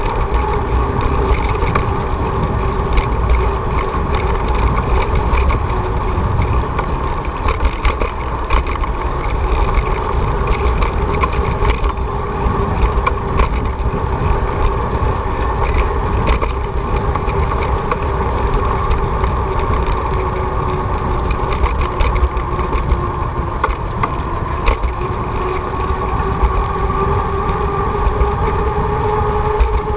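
Wind and road noise on a riding bicycle: a steady, heavy rush with a constant whine in it that rises slightly near the end.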